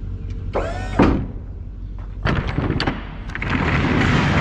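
Metal rear door of a box truck being worked: a brief squeak ending in a sharp clunk about a second in, then a rattling rumble that builds toward the end as the door rolls.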